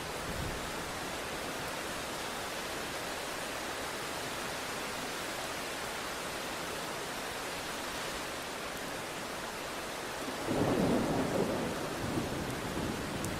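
Steady rain falling, then a low rumble of thunder that swells up about ten seconds in.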